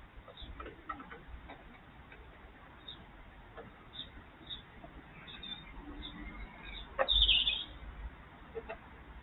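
Birds chirping in short scattered calls, with light clicks and knocks. About seven seconds in comes a louder sudden knock, followed by a brief high-pitched burst.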